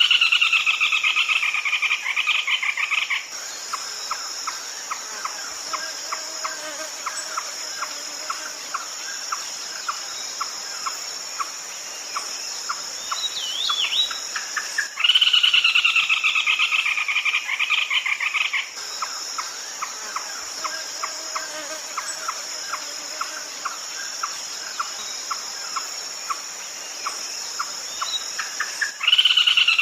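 Red-legged crake calls on a loop. A loud three-second rattle falls in pitch and is followed by a long slow series of short sharp notes, about two a second. The cycle starts over about halfway through and again near the end. A steady high insect drone runs underneath.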